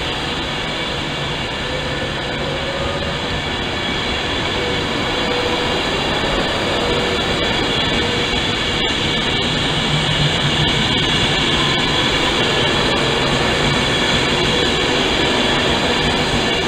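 Class 390 Pendolino electric train running slowly past along the platform: a steady rumble of wheels on rail with several steady whines from its electric traction equipment.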